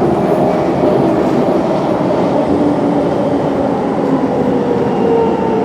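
Siemens C651 MRT train running: a steady rumble with a few faint whining tones that slowly slide in pitch.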